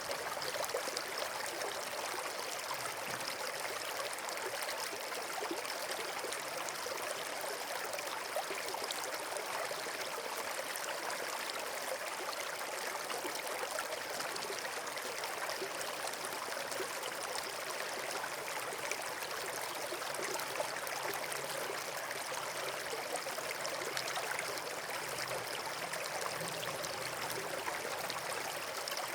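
Steady rushing of running water, like a stream or small waterfall, even and unbroken.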